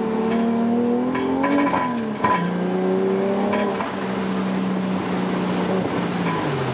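Toyota JZX100's straight-six engine revving under drift driving: the revs rise, drop sharply about two seconds in with a few sharp knocks, hold steady, then fall away near the end.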